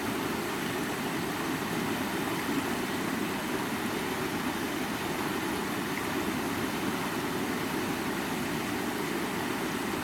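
A stream of water running over rocks, a steady rushing with most of its weight in the low-middle range.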